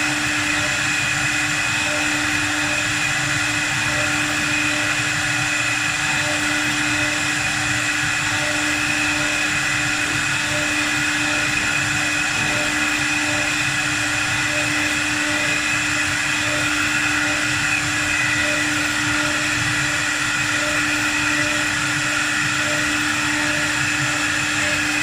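4-axis CNC wood lathe running steadily: an even motor whine with a steady hum, unchanging throughout.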